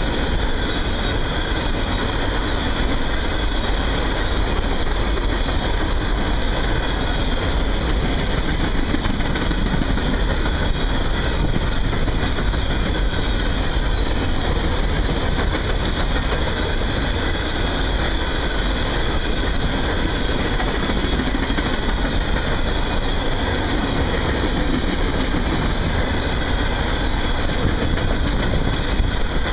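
Empty coal hopper cars of a freight train rolling past: a steady, loud noise of steel wheels running on the rails.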